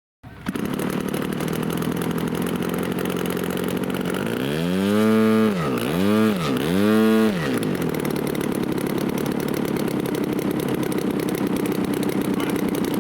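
Small model-aircraft piston engine idling steadily, then revved up and back down three times in quick succession, about four to seven seconds in.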